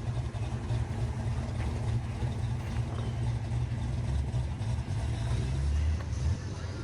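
A car engine idling with a steady deep rumble, the low note getting heavier briefly about six seconds in.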